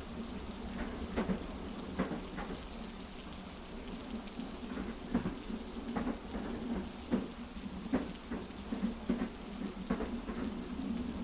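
Heavy rain falling steadily over a low rumble, with the clack of train wheels over rail joints knocking about once a second.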